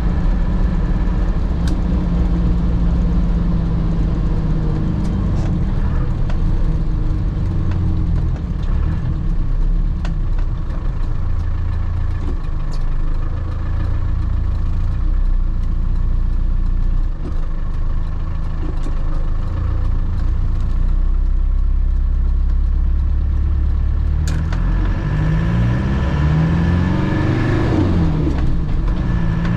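Land Rover Defender's engine and road noise heard from inside the cabin while driving, with an occasional sharp knock or rattle. Near the end the engine note climbs as the vehicle accelerates.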